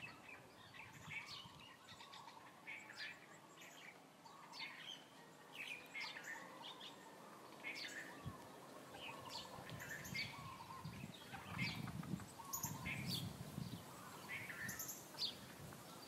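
Birds chirping: short calls repeating every second or so. A low rumble swells underneath in the second half.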